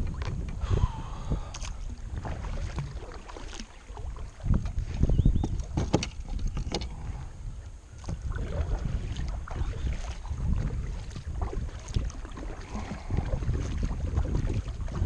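Kayak paddle strokes dipping and splashing in the water, with a steady low wind rumble on the microphone.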